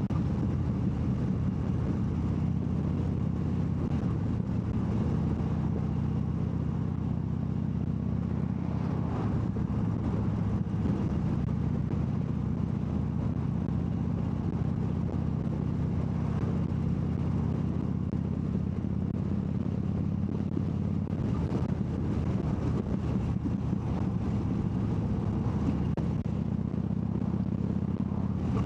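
Harley-Davidson V-twin motorcycle engine running steadily at cruising speed, heard from the rider's seat.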